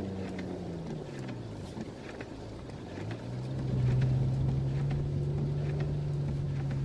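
A vehicle's engine easing off over the first two seconds, then revving up about three seconds in and holding at higher, louder revs.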